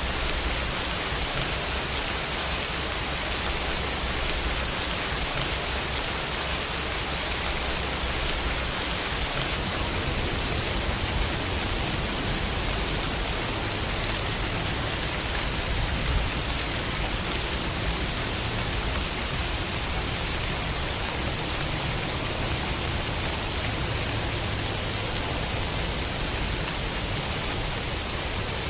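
Steady, heavy rain falling: an even, dense hiss of drops with a low rumble underneath.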